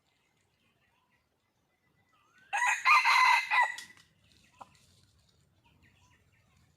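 Red junglefowl giving one loud call, about a second and a half long, starting about two and a half seconds in. It is the call that is played to draw in a mate.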